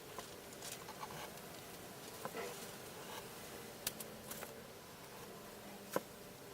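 Faint handling noises at a workbench: scattered small clicks, taps and brief scratches, with a sharper click just before four seconds and the loudest click about six seconds in.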